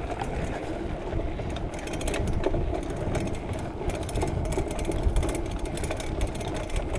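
Sound of riding a bike on wet pavement: steady rumble from wind on the microphone, mixed with a continuous mechanical whir from the moving bike.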